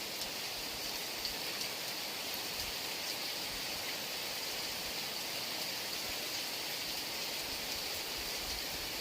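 Heavy rain falling steadily, a constant hiss with scattered individual drop ticks.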